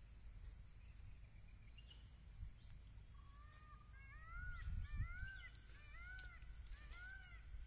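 A bird calling about six times in a row, each call a short rising-then-falling note, beginning about three seconds in. Low thumps are heard underneath around the middle.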